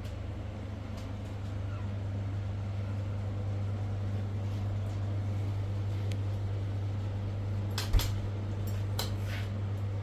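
A vehicle engine running with a steady low hum. A single sharp knock comes about eight seconds in, followed by a few light clicks.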